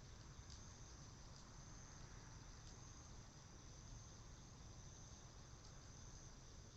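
Faint, steady high-pitched chorus of insects, crickets among them, with a few faint clicks from the cedar-wood fire.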